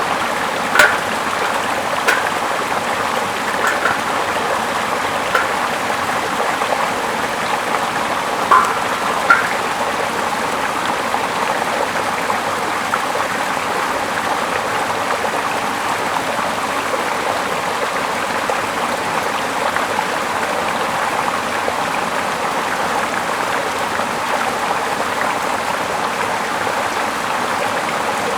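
Small stream flowing steadily, an even rush of water, with a few short sharp plinks in the first ten seconds.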